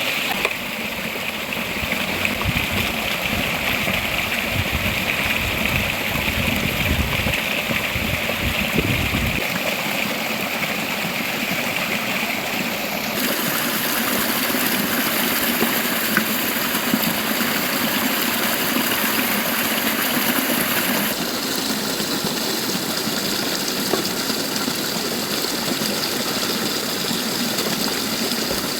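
Running river water, a steady rushing whose tone changes abruptly three times, about 9, 13 and 21 seconds in. A low rumble underlies the first nine seconds or so.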